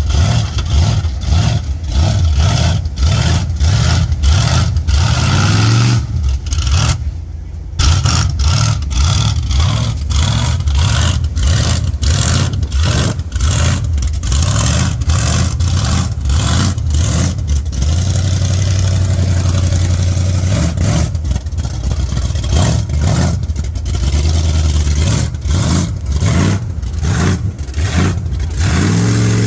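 Big mud truck engine running loud and revving hard in a deep mud hole, with a short drop in level about seven seconds in.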